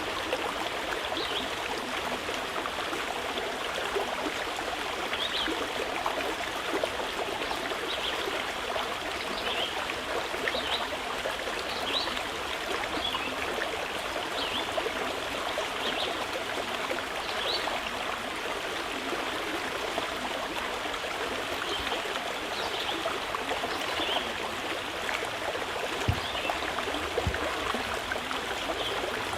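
Mountain river flowing, a steady rushing of water, with short high bird chirps every second or two.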